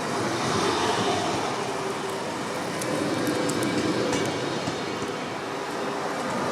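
Train running through a station: a steady rush of wheels on rails, growing louder in the first second, with a few brief high-pitched squeaks in the middle.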